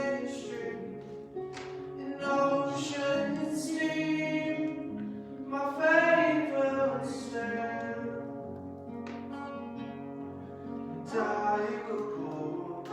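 Live worship song: singing with long held notes over guitar accompaniment.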